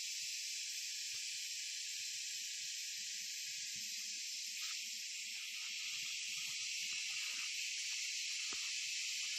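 Steady chorus of insects: a dense, unbroken high-pitched buzz.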